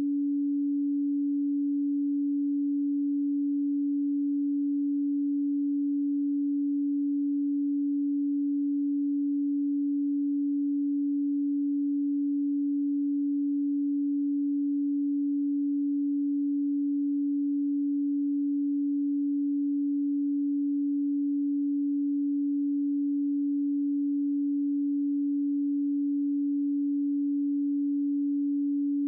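A pure sine tone at 285 Hz, held steady and unchanging, with no other sound.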